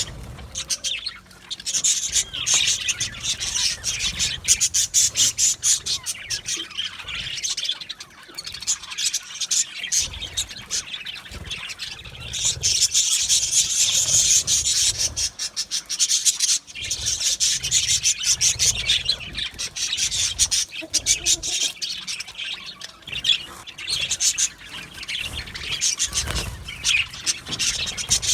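A flock of budgerigars chattering, chirping and squawking continuously, many birds at once in a dense, rapid warble.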